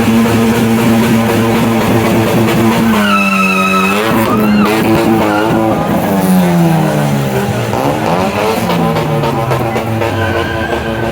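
Car engine held at high revs, then the revs repeatedly dropping and climbing as the car drifts, with tyres squealing and skidding.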